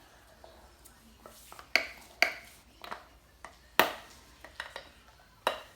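A handful of sharp clicks and knocks at uneven intervals, each with a brief ring, the loudest about two seconds and four seconds in.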